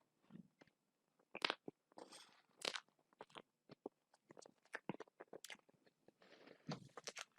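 A person biting and chewing crunchy food close to the microphone: irregular sharp crunches and crackles with short pauses between bites.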